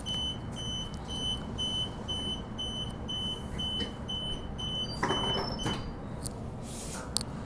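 Door-closing warning beeps on a Transperth B-series electric train: a steady run of short high beeps, about two a second, that stops a little over five seconds in as the doors slide shut, followed by a short hiss and a sharp click.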